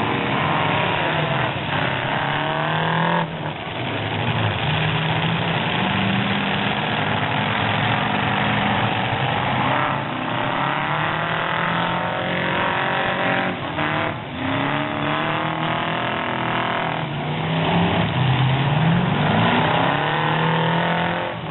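Full-size pickup truck engines revving hard, several at once, their pitch climbing and dropping again and again as the trucks accelerate and back off.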